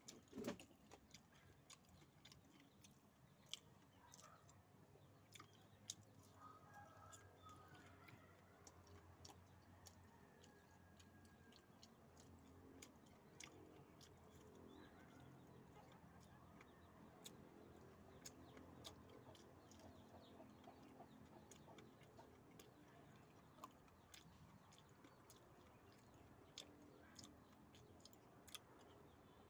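Faint chewing and biting sounds of a man eating fried banana fritters (maruya), with many small sharp mouth clicks and smacks scattered through.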